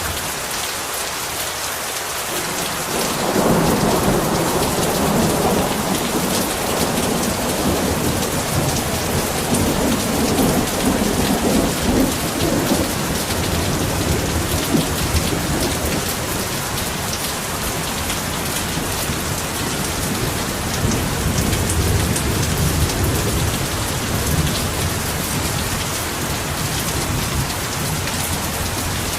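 Heavy rain pouring steadily, with a long roll of thunder rumbling in about three seconds in and rolling on through most of the stretch.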